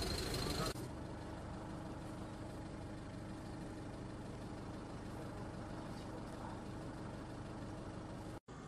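A vehicle engine idling steadily, a low even hum. A louder sound cuts off less than a second in, and the sound drops out briefly near the end.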